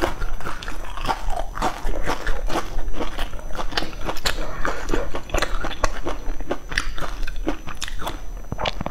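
Close-miked crunching and chewing of crispy deep-fried breaded patties: a dense, irregular run of loud crackly crunches as the crust is bitten and chewed.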